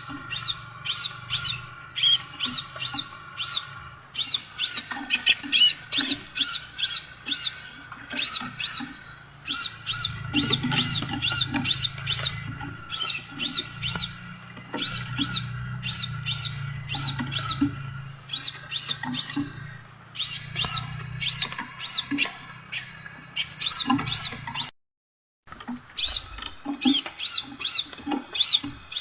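Scarlet minivet calling: a fast, unbroken series of short, sharp, high-pitched notes, several a second. The sound drops out for about a second near the end, then the calls resume.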